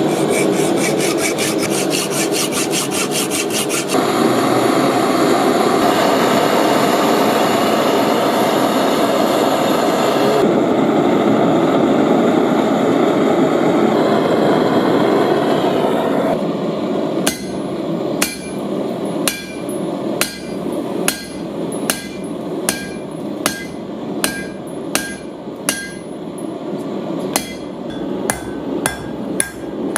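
A steady rushing noise, then, from just past halfway, a blacksmith's hammer striking steel on an anvil about once a second, quickening near the end, each blow with a short metallic ring: forging tongs.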